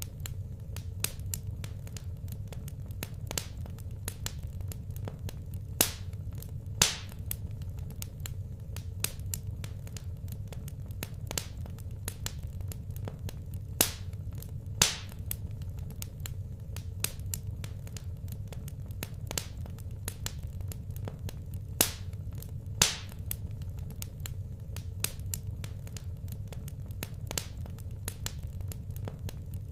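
Fire burning in a fireplace, crackling with irregular small clicks and a louder sharp pop every few seconds, over a steady low hum.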